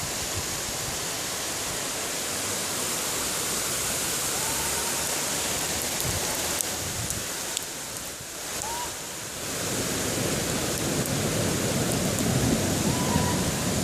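Torrential rain pouring down in a steady hiss, easing briefly about eight seconds in before coming back heavier.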